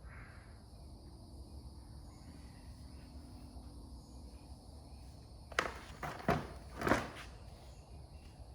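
Three sharp knocks in quick succession, about half a second apart, over a faint steady background.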